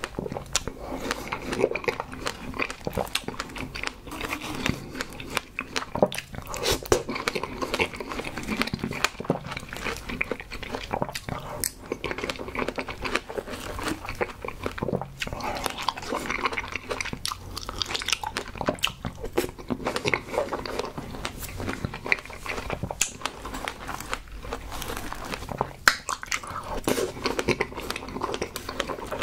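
A person chewing and biting fresh strawberries with whipped cream, close to the microphone: steady chewing and mouth sounds made of many small irregular clicks, with one sharper click near the end.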